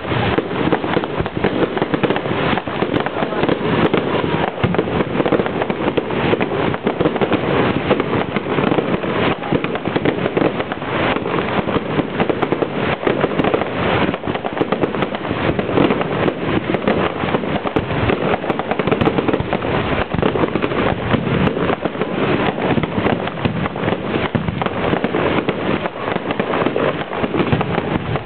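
Fireworks display, a dense, continuous barrage of bangs and crackles with no let-up. The recording is low-quality camera audio, so it sounds dull and rough.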